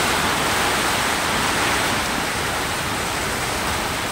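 Heavy rain pouring down onto corrugated tin roofs, a steady dense hiss.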